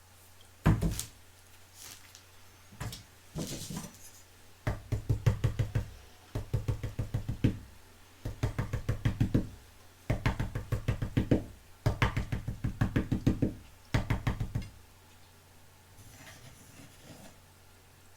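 Bursts of rapid, hard tapping or rattling, about ten taps a second, in runs of about a second each, repeated six times after a single sharp knock.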